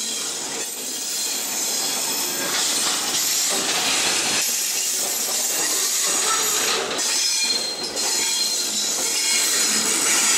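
Train rolling past close by: the Falco 2 diagnostic car and an E.652 electric locomotive go by with steady wheel-on-rail noise and a thin high squeal from the wheels.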